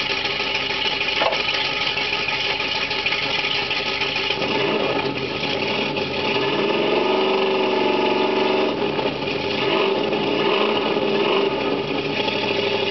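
1976 Ford Bronco's 351 Windsor small-block V8, breathing through long-tube headers into a custom 2.5-inch 2-into-1 exhaust and a Magnaflow three-chamber muffler, idling and then revved. About four seconds in it climbs, holds the revs for a couple of seconds, drops back to idle, then gets a second, shorter blip.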